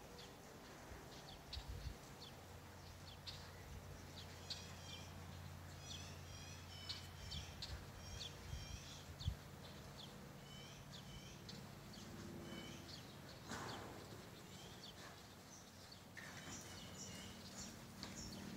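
Faint chirping of small birds, many short calls scattered throughout, over a low steady hum, with a few soft taps and a sharp click about halfway through.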